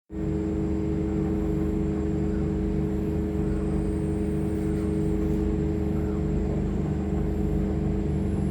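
Steady drone of engine machinery running at constant speed aboard a vessel. It is a low hum with a regular pulsing throb that does not change.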